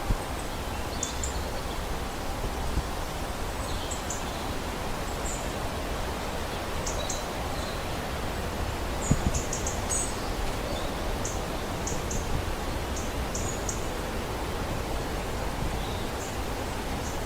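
Short, high bird chirps scattered throughout over a steady background hiss, with one brief thump about nine seconds in.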